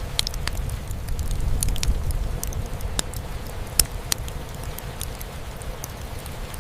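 Fireplace crackling with scattered sharp pops, the loudest a little under four seconds in, over a steady low rumble of rain drumming on a roof.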